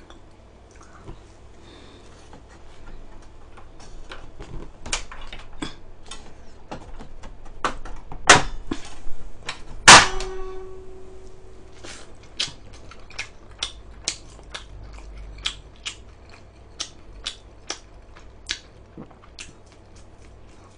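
Close-miked chewing of pan-fried battered fish (saengseon-jeon): wet mouth clicks and smacks, settling into a regular tick about one to two times a second. Two sharper clacks come about eight and ten seconds in, the second with a brief ringing.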